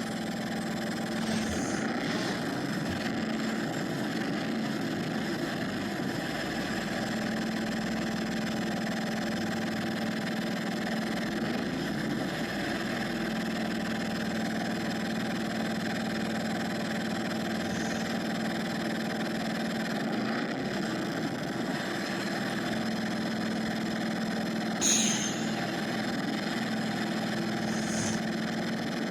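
Exhaust of a school bus's Mercedes-Benz OM906LA (MBE-900) inline-six turbodiesel, running steadily with an even drone. About 25 seconds in there is one brief, loud, high-pitched sound over it.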